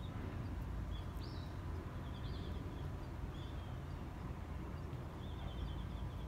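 Outdoor park ambience: a steady low rumble with a bird's short high chirps and quick trilled calls every second or two.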